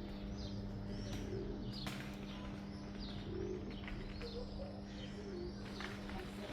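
Small birds chirping again and again in short high notes, with soft low pigeon-like cooing beneath them over a steady low hum.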